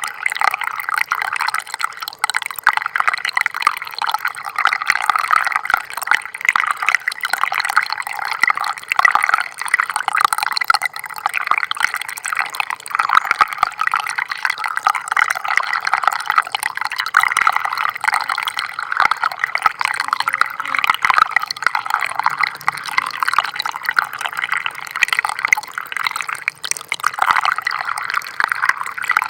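Small stream of water flowing and trickling steadily, with a busy patter of little splashes and drips.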